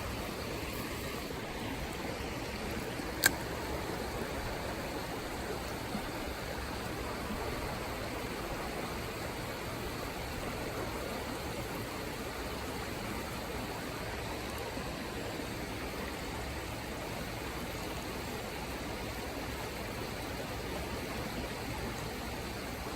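Small creek running steadily as a constant rushing hiss, with one sharp click about three seconds in.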